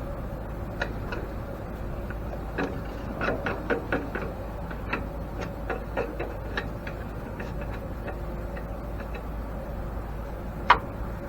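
Scattered light clicks and knocks of metal parts of an antique grain mill being handled and worked on, with one sharper knock near the end, over a faint steady hum.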